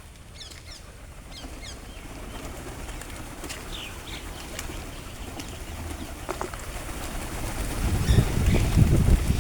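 Birds at a feeding spot: short, high, falling chirps repeat through the first half, and near the end a loud, low rush of noise builds up.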